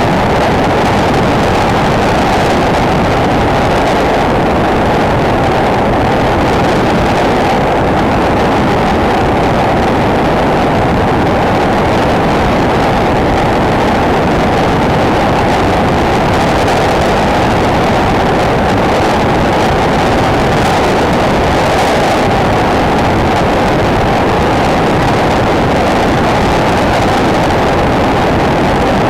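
Single-cylinder four-stroke enduro motorcycle engine running steadily under way, mixed with wind noise on the camera's microphone.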